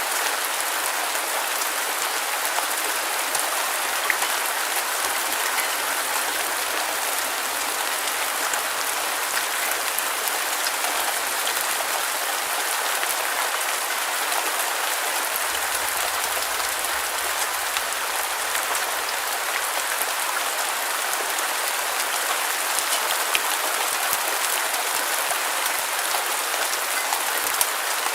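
Steady rain, an even hiss without rumble, with a few faint drop ticks.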